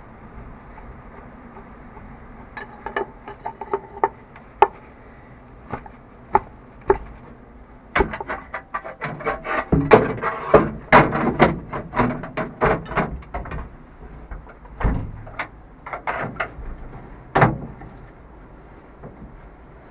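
Irregular knocks and clatter of hard objects being handled, a few at first, then a dense run in the middle and a few more strikes near the end.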